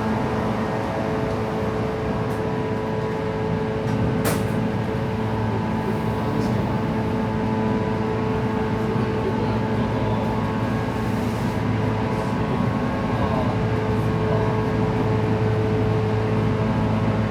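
Running noise heard inside a 117 series electric train car: a steady rumble with a constant hum, and one sharp click about four seconds in.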